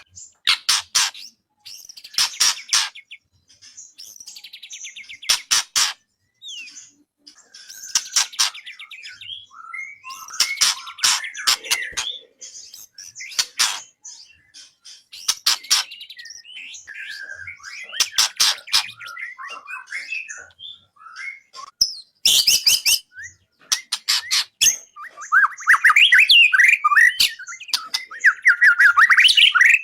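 Songbird song from a masteran recording used to train white-rumped shamas: bursts of fast, rattling trills alternate with short whistled notes. Over the last few seconds the song turns into a dense run of rapid chattering.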